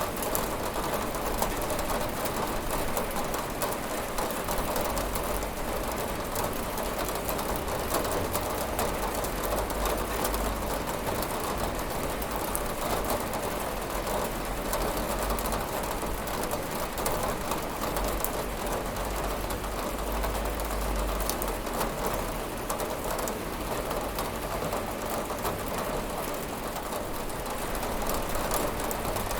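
Steady rain falling on a window: an even hiss with a scatter of fine drop ticks and a low rumble underneath.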